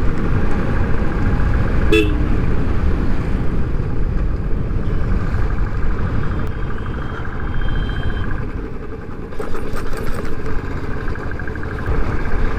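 Motorcycle ride noise, a dense low rumble of engine and wind on the microphone, with a short vehicle horn toot about two seconds in.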